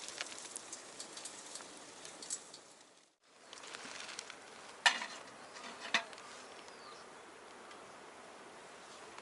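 Wood fire crackling in a small stainless box stove: scattered snaps over a steady hiss, with two loud sharp pops about five and six seconds in. The sound drops out briefly about three seconds in.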